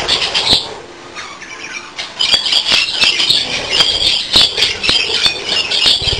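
A flock of budgerigars chattering and squawking, with many sharp clicks among the calls. The chatter thins out about a second in and picks up again densely about two seconds in.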